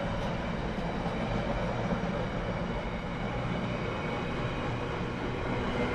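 Container flat wagons of an intermodal freight train rolling past on the rails: a steady, continuous noise of wheels and running gear.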